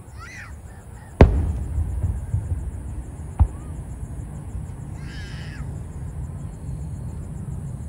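Aerial firework shells bursting: a sharp, loud bang about a second in, then a low rumble that carries on, and a second, smaller bang about two seconds later.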